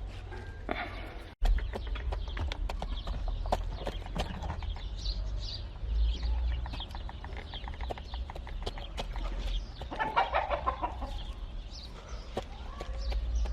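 Chickens clucking, with short high chirps and frequent sharp taps throughout. A louder burst of rapid clucking comes about ten seconds in.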